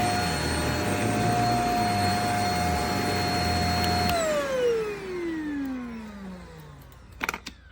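JPHYLL Ultra-UVC-K16 mattress vacuum cleaner running with a steady high motor whine, then switched off about four seconds in, its whine falling in pitch and fading as the motor spins down. A couple of sharp clicks near the end.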